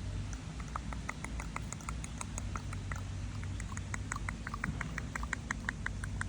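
Squirrel making a rapid run of short sharp clicks, about six a second, starting about a second in, over a low steady hum.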